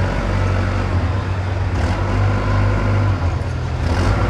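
Diesel engine of construction machinery running steadily under a low, continuous drone; its note shifts slightly near the end.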